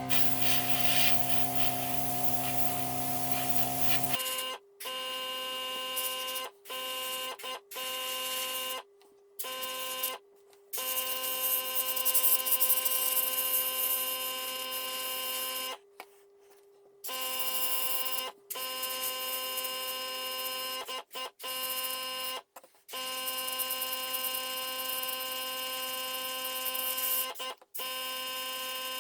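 A steady machine hum made of several fixed tones, changing pitch about four seconds in and then cutting out abruptly and resuming many times.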